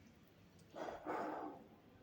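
Close-up eating mouth sounds during a mukbang: two short noisy bursts about a second in, then quiet.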